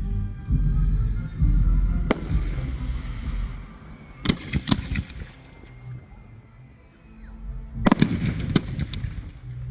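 Aerial fireworks shells bursting: a sharp report about two seconds in, a quick cluster of three in the middle and another cluster near the end, over a low rolling rumble, with music underneath.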